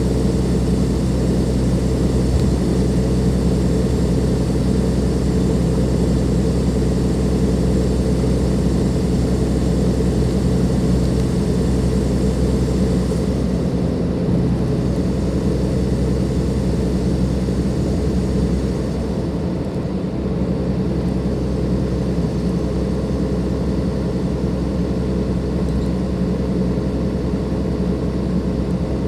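Cummins ISLe340B six-cylinder diesel engine of a Dennis Enviro 500 double-deck bus running at a steady speed, a deep, even engine drone. The level drops slightly about two-thirds of the way through.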